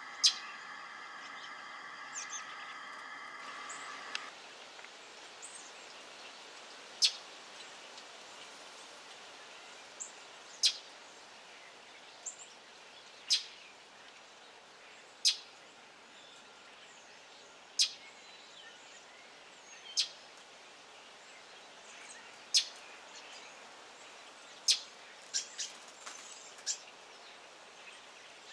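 A wild bird giving sharp single alarm calls, short high chips repeated about every two to three seconds. A steady hum under the first few seconds stops about four seconds in.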